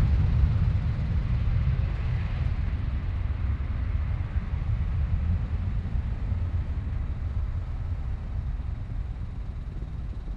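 Boeing C-32 (757-200) jet's Pratt & Whitney PW2000 turbofans heard as a deep rumble after take-off, fading steadily as the aircraft climbs away.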